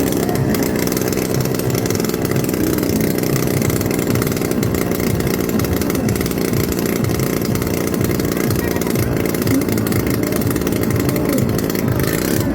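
Motorcycle engine running steadily during a ride.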